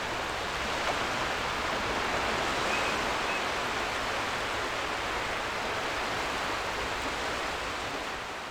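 Ocean surf washing steadily onto a beach, with two faint short seagull calls about three seconds in. The surf begins to fade out near the end.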